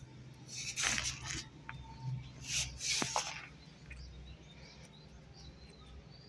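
Pet parrot making a few faint short chirps, with several short scratchy rustling noises in the first half.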